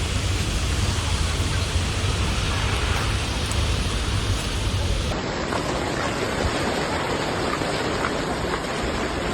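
Typhoon wind and heavy rain: a steady, dense hiss with a low rumble of wind on the microphone. About five seconds in the sound changes abruptly to a lighter hiss with less rumble, as a new piece of storm footage begins.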